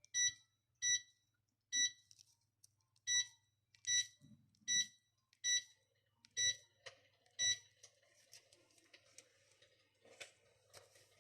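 Electrolux Sphere electric fireplace's controls beeping nine times, one short high beep per button press, as the volume of its simulated log-crackling sound is adjusted. Faint artificial wood crackling runs through the second half.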